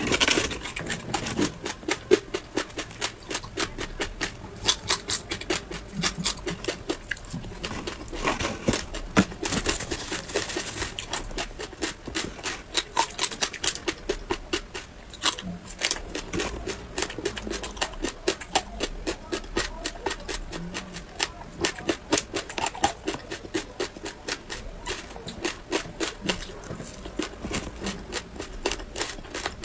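Close-up crunching as a person bites and chews a crisp, seed-studded sheet: a fast, irregular run of sharp cracks and crackles with a louder snap now and then.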